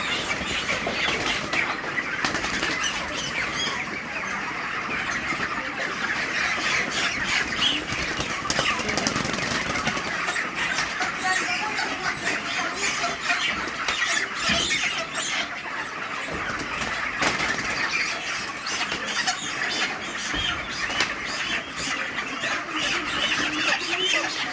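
A flock of chickens calling over one another, a continuous din of many overlapping high squeals and squawks.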